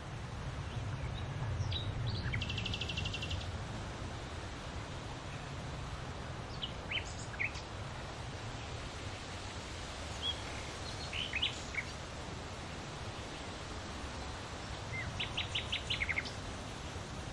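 Outdoor ambience: small birds chirping now and then over steady low background noise, with a rapid trill about two seconds in and a quick run of short notes near the end.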